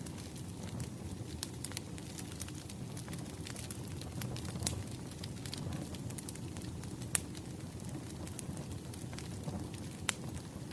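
Wood fire crackling: a steady low rumble of burning logs with irregular sharp pops and snaps, the loudest about 7 and 10 seconds in.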